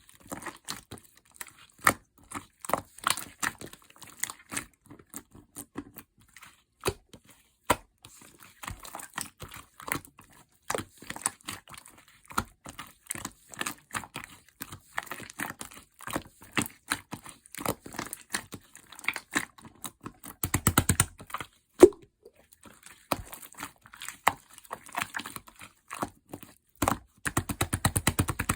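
Slime being squeezed, poked and pressed by hand, making sticky clicks and air-bubble pops throughout. Twice, once about two-thirds of the way in and again near the end, it breaks into a fast, even run of rapid popping.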